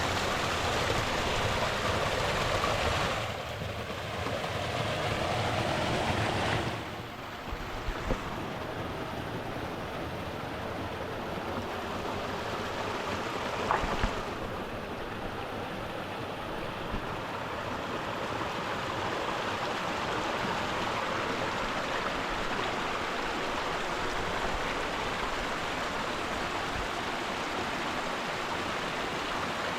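Mountain stream running over rocks, a steady rush of water. Its level and tone shift abruptly about 3 and 7 seconds in, and two brief knocks stand out a little later.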